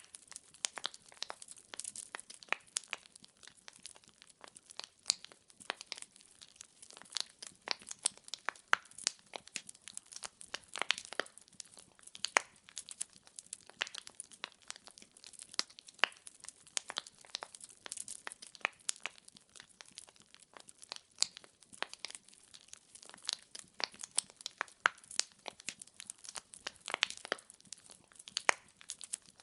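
Burning firewood crackling: dense, irregular pops and snaps of varying strength over a faint hiss.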